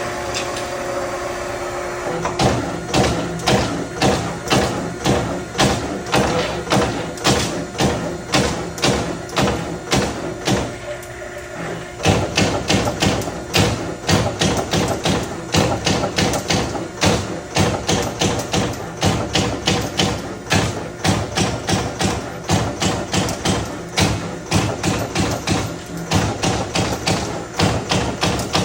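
Euromac MBX 6 Plus CNC turret punch press punching sheet metal: a quick run of sharp punch strokes, about two a second, over the steady hum of the machine's drive. The strokes break off briefly around the middle and then carry on.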